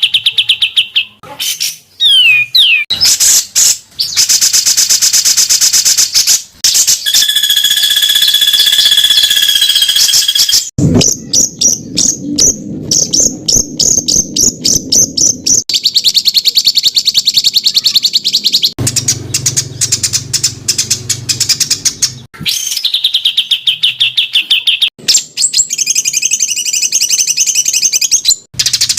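Songbird tutor (masteran) recording: loud, rapid-fire repeated bird calls and trills in quick bursts, switching abruptly to a different bird's song every few seconds.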